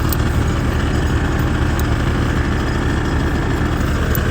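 Farm tractor's diesel engine idling steadily, with a few faint short clicks over it.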